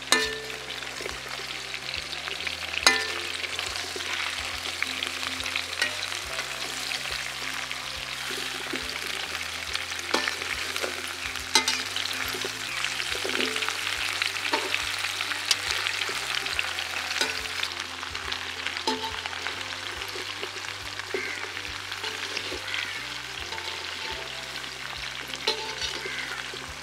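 Whole spiny gourds and chopped onion sizzling as they fry in an aluminium kadai, with the scrape and clink of a perforated steel spoon stirring them against the pan. A few sharper clinks stand out, the loudest about three seconds in.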